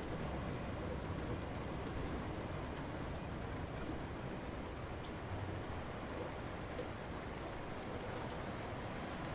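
Light rain falling steadily, an even hiss with faint scattered drop ticks.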